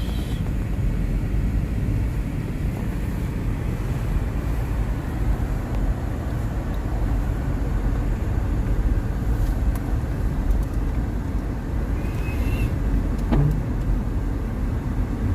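Car driving on snow-covered streets: a steady low rumble of engine and road noise.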